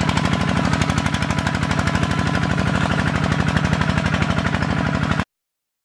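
Tractor engine running under load while ploughing, a fast, even chugging beat of about a dozen pulses a second. The sound cuts off abruptly a little over five seconds in.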